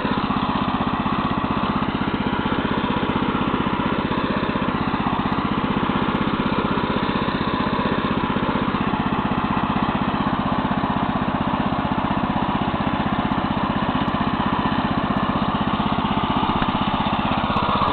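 Neva MB-2 walk-behind tractor's new engine running steadily under load while its tiller blades work the soil. The engine is being run in.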